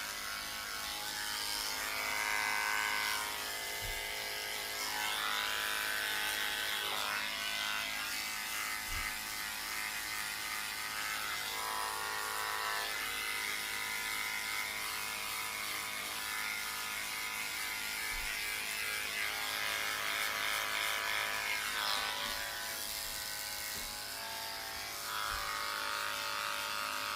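Electric dog grooming clippers running steadily, their hum shifting in pitch and strength as the blade works through a poodle's hair.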